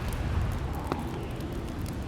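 Log fire crackling in a fireplace: scattered sharp pops and snaps over a steady low rumble.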